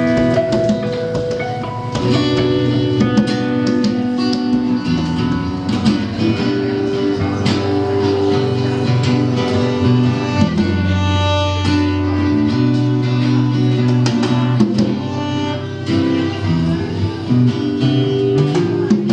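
A live band playing an instrumental passage, led by guitar.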